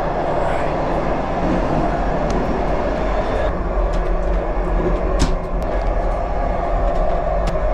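Chinese sleeper train running, a steady rumble and rush heard from inside the carriage, with a few sharp clicks; the loudest click comes about five seconds in.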